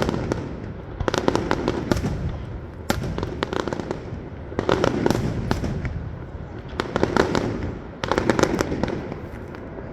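Fireworks going off: clusters of sharp bangs and crackles come in waves every second or two, with a low rumble between them.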